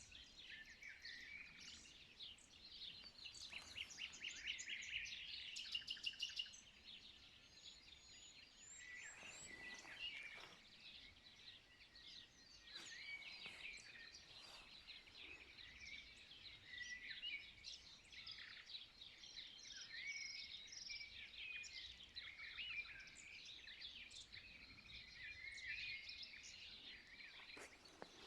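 Dawn chorus of several songbirds singing and calling over one another, with a loud, rapid trill about three to six seconds in.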